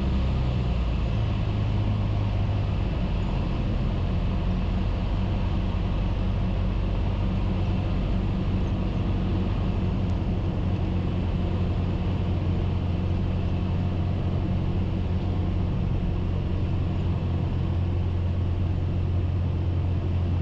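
Cessna 172S's four-cylinder Lycoming engine and propeller droning steadily in the cockpit, rising slightly in pitch about a second in.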